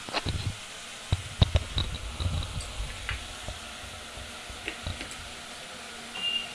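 Chicken frying in a pan with a steady sizzle, while a spoon knocks and scrapes against the pan as the pieces are stirred, with a run of sharp clatters in the first three seconds and a few more about five seconds in.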